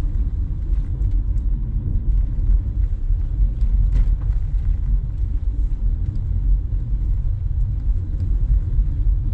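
Steady low rumble of a car heard from inside the cabin, the engine and road noise of the vehicle being driven.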